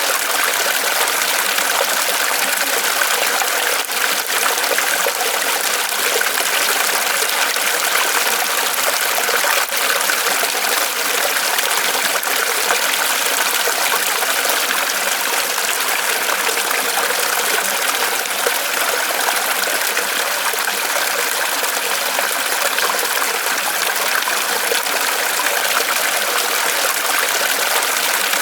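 Small waterfall of water trickling and splashing down from a tree trunk, a steady even rush with faint drips and ticks in it.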